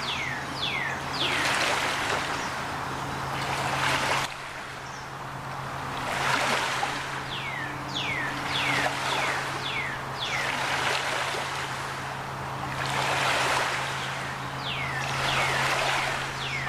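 Ospreys calling: groups of three or four sharp, falling whistles, repeated every several seconds. Under them run swells of rushing water and a steady low engine hum.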